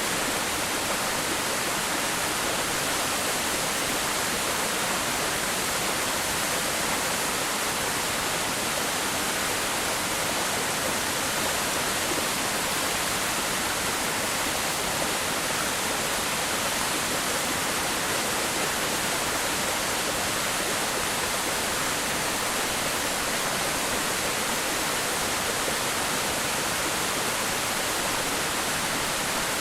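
Waterfall: water falling and splashing into a plunge pool, a steady, unbroken rushing.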